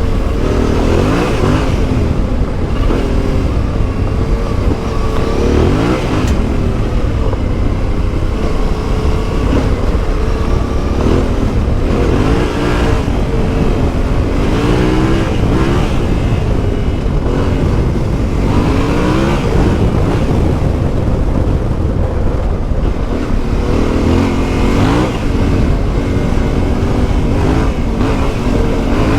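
Yamaha Ténéré 700's CP2 689 cc parallel-twin engine through an Akrapovic exhaust, on the move under way: the engine note rises and falls again and again as the bike accelerates and shifts through the gears.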